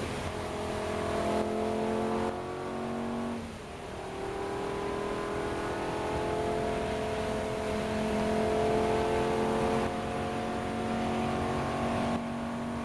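Lamborghini Gallardo Nera's V10 engine heard from inside the cabin under acceleration: its note climbs steadily in pitch for several seconds, dipping a couple of times early on and dropping about ten seconds in at a gear change.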